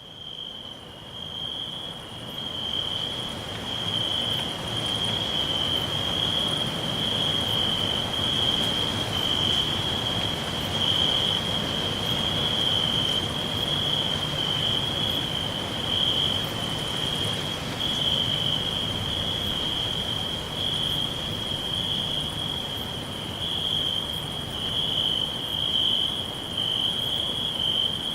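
Crickets trilling in a continuous chorus, one steady high-pitched, slightly pulsing tone over a soft even hiss. It fades in over the first couple of seconds, then holds steady.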